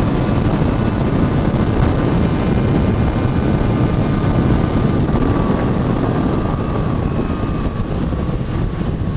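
A motorcycle riding at speed, with heavy wind buffeting the microphone over the engine and a faint engine whine that slowly falls in pitch.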